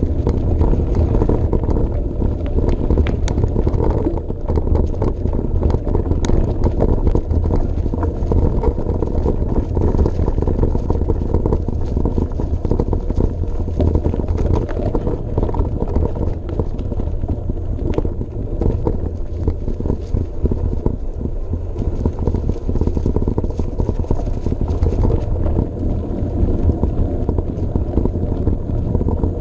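Riding noise of a Trek Marlin 7 mountain bike on a path: a steady low rumble of tyres and wind, with frequent small rattles and knocks as the bike goes over bumps.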